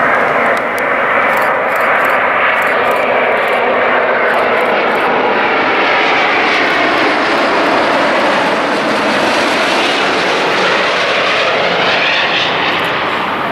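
Jet airliner's engines running loud and steady as it passes close by, with faint whining tones that shift in pitch near the end.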